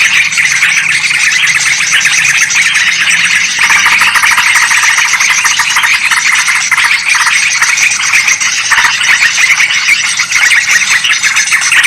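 Dense, unbroken chattering of many bulbuls, yellow-vented bulbul (trucukan) and sooty-headed bulbul (kutilang) calling over one another, played as a loud bird-trapping lure. The chirps are high and overlapping.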